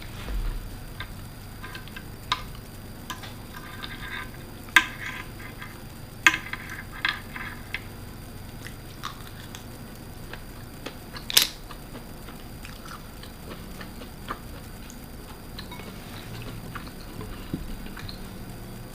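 Person eating a seafood meal of manila clams and baby octopus: soft wet chewing with a few sharp clicks and short ringing clinks, loudest about 5 and 11 seconds in.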